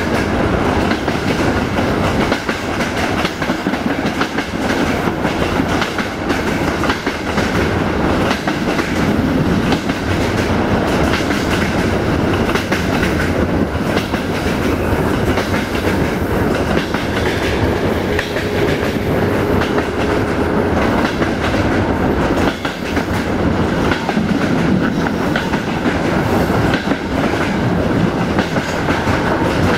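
Passenger train running along the track, wheels clicking over rail joints under a steady rumble of rolling noise, heard from aboard a carriage.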